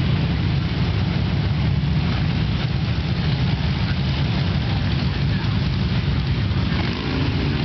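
Engines of many motorcycles in a procession, a steady, dense low rumble.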